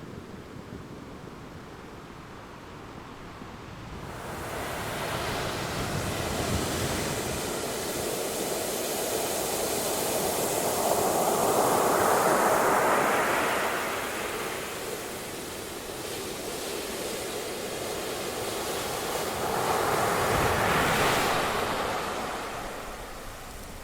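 Ocean surf: waves breaking and rushing up the shore in a steady wash. A low rumble at first broadens into a hiss about four seconds in. Two big waves swell and break, the first about halfway through and the second near the end.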